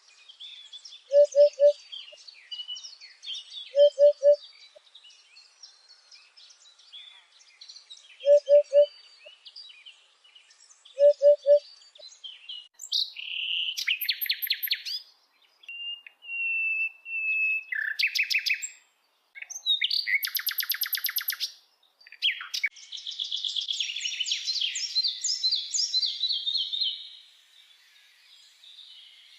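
Birdsong: a faint chorus of high chirping birds, with a low three-note hooting call repeated four times in the first half. After that come louder, separate phrases of fast trills and clear whistles.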